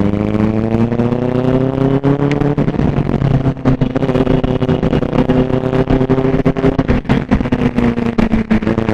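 Superbike engine running under way, its pitch rising for the first two seconds or so as it accelerates, then holding a steady drone.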